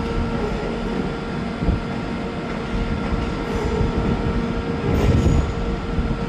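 A train running, a steady rumble with a constant hum of several pitches over it, a little louder about five seconds in.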